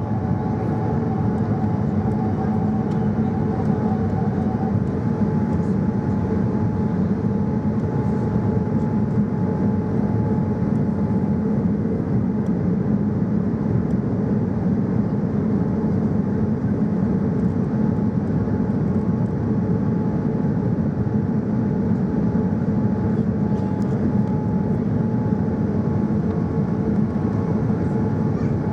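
Steady cabin noise of a Boeing 787-9 airliner in flight: an even engine and airflow rumble with faint steady whining tones, starting abruptly at full level.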